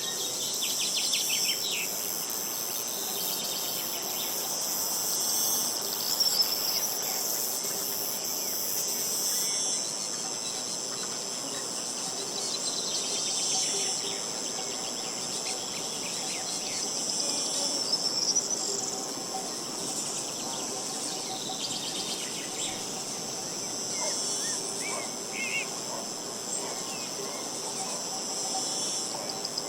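Steady high-pitched trilling chorus of insects, with brief bird chirps breaking in every few seconds.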